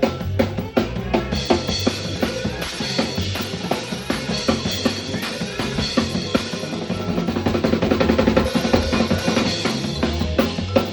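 Live band playing an instrumental jam, led by a drum kit with kick and snare over a steady bass line. A fast run of drum strokes builds louder about seven seconds in.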